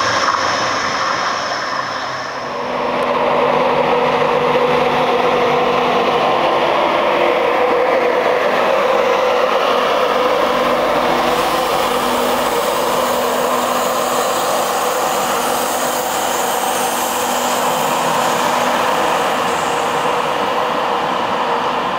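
East Coast Class 91 electric locomotive and its coaches passing close by: a steady rumble of wheels on rail with a faint steady hum, building up about two seconds in.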